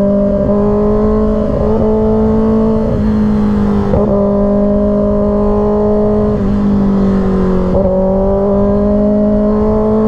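Kawasaki Ninja ZX-6R's 636 cc inline-four engine running at steady revs under way, its pitch dipping briefly a few times, over a low rush of wind.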